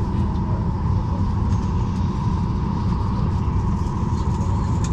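Steady cabin noise inside a Boeing 737-800 before takeoff: a constant low rumble with an even hum above it, from the aircraft's air-conditioning and engines.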